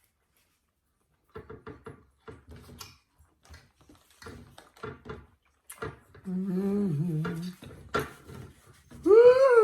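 Eating sounds: a run of small clicks of chewing and cutlery on a plate, then a low hummed 'mmm' of enjoyment lasting about a second. Near the end comes a higher vocal sound that rises and falls.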